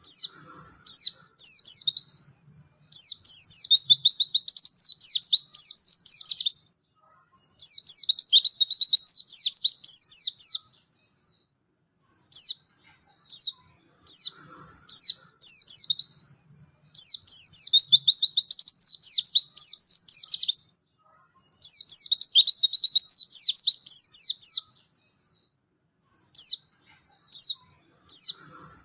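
White-eye (pleci) singing: high-pitched, rapid twittering phrases of two to four seconds each, made of quick falling notes and separated by short pauses.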